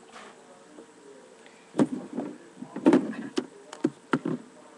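A run of irregular knocks and thumps, about eight of them, starting about two seconds in, over a faint steady hum.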